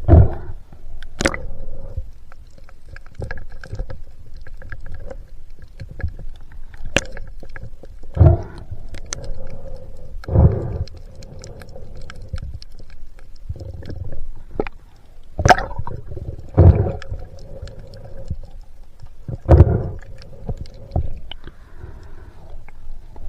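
Muffled water noise with a low rumble, broken by irregular sharp knocks and splashy surges every second or few, with a faint steady hum underneath.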